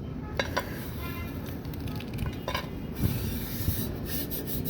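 Scraping and rustling handling noise with a few light knocks.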